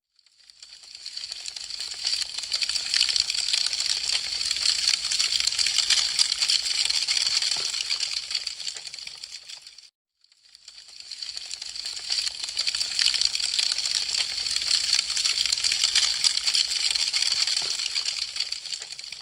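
Burning wood crackling in a dense, rapid patter of small pops and snaps. It comes in stretches of about ten seconds that fade up and fade out, with a brief silence about ten seconds in.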